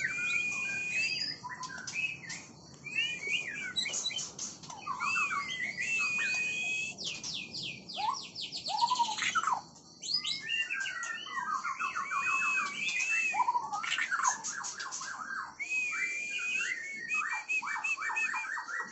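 White-rumped shama (murai batu) singing a long, varied song of clear whistles that bend up and down, fast runs of repeated notes, trills and sharp chips, with only brief pauses.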